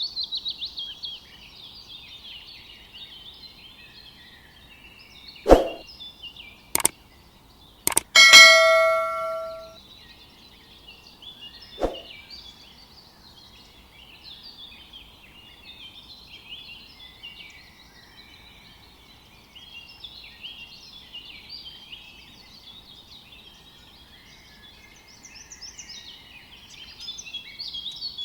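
Birds chirping steadily, with a few sharp knocks and one ringing clang about eight seconds in that fades out over a second or so.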